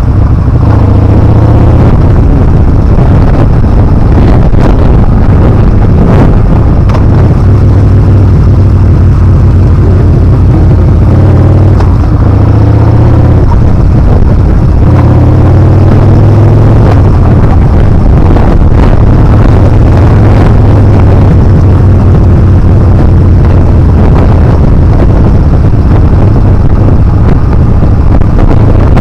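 Yamaha Bolt R-Spec's air-cooled V-twin running under way on a downhill ride, its revs rising and falling several times, under loud wind rush on the microphone.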